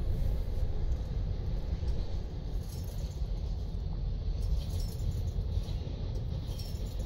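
Freight train's container wagons rolling past, their wheels giving a steady low rumble and rattle on the rails.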